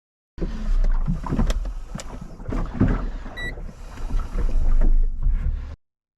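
Strong wind buffeting the microphone aboard a small plastic boat, with a few sharp knocks about a second and a half in and a short high electronic beep about three and a half seconds in.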